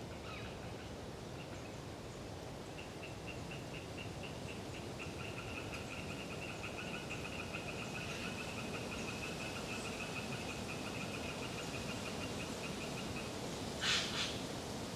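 Eastern tree frog (Hyla orientalis) calling in a long run of rapid pulses, over a steady rush of wind. Near the end a short, loud, harsh sound cuts in twice.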